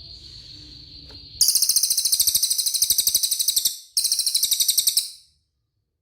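Cililin bird singing: a thin, high, steady whistle, then a loud, very fast trill of about ten notes a second. The trill breaks off briefly near four seconds in, resumes, and stops about five seconds in.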